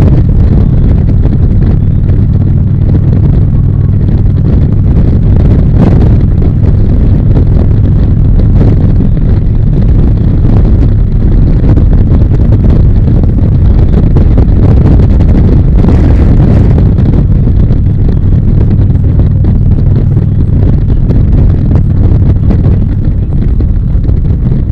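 Harley-Davidson V-twin engine running steadily at riding speed, with wind rushing over the microphone.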